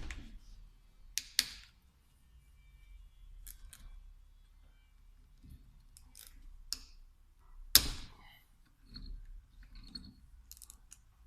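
Scattered sharp clicks and light knocks of hand tools and small metal parts being handled while a VE diesel injection pump is taken apart. There are two close clicks just over a second in, and the loudest comes about eight seconds in.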